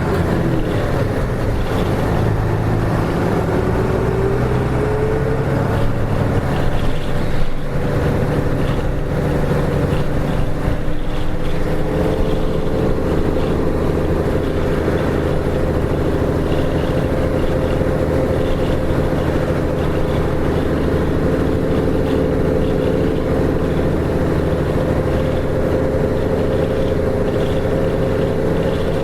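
Hino KK-RM252GSN route bus's diesel engine heard on board while driving: the engine note rises for the first several seconds, breaks briefly about seven and a half seconds in, climbs again, then holds a steady cruising pitch from about twelve seconds in.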